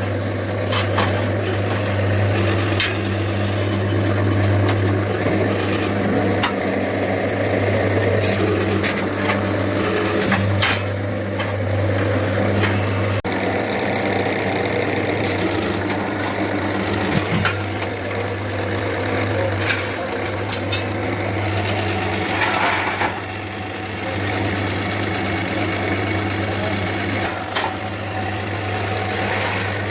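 A steady low mechanical hum with a constant pitch, overlaid by scattered short clicks and knocks of work going on.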